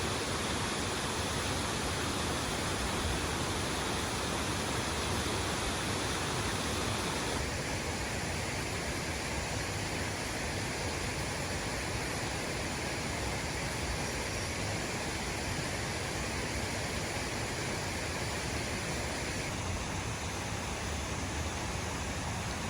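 Waterfall rushing steadily, a dense even roar of falling water that shifts slightly in tone about a third of the way in and again near the end.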